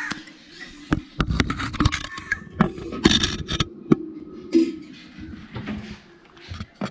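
Handling noises: a run of sharp knocks and clicks with scraping and rustling as grapes and tomatoes are put into an earthen pot.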